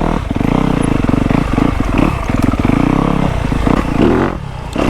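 Dirt bike engine running under uneven throttle, blipped on and off as the bike picks its way over rough trail, easing off briefly near the end.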